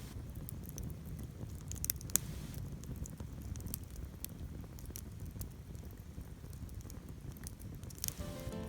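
Wood campfire crackling, with scattered sharp pops and snaps over a low steady rumble of the burning fire. Background music starts near the end.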